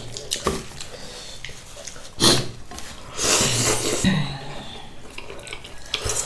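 Mukbang eating sounds: a person slurping hot noodles and drawing breath, with two loud noisy slurps or sniffs, one about two seconds in and a longer one a second later, among light clicks of utensils.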